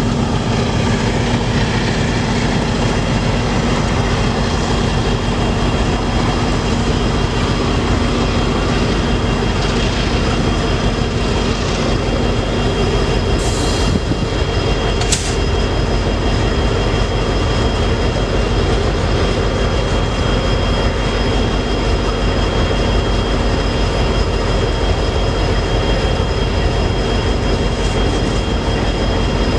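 Freight train rolling past at close range: a loud, steady rumble of wheels and cars on the rails, with two brief high-pitched hisses or squeals about halfway through.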